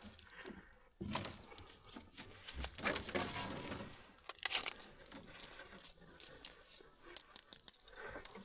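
Irregular rustling and crinkling handling noise with scattered light knocks.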